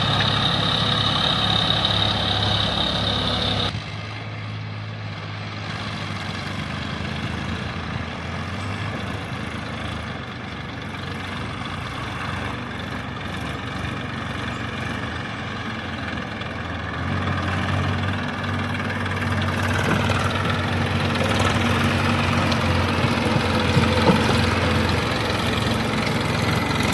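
Diesel engine of a tractor or backhoe loader running steadily. There is an abrupt change to a quieter engine sound about four seconds in, and it grows louder again in the second half as the engine works harder.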